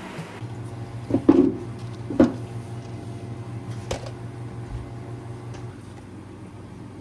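Steady hum of a kitchen appliance with three short knocks of things being handled, the first and loudest about a second in.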